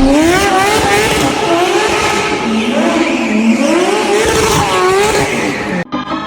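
A drifting car's tyres squeal with a pitch that wavers up and down, over engine and road noise. The sound cuts off suddenly near the end.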